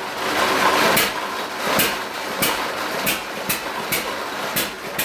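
1924 John Deere E-series hit-and-miss engine running belted to a generator under a partial electrical load. Sharp clacks come irregularly, about two a second, over a steady mechanical running noise.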